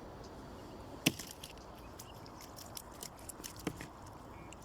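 A sharp knock about a second in, then a scatter of lighter clicks and taps and a second knock near the end, over low steady background noise.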